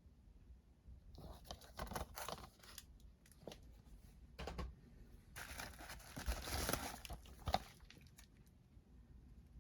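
Packaging being torn open and crinkled by hand: several short ripping scrapes, then a longer tear lasting about two seconds that ends in one sharp snap, the loudest sound.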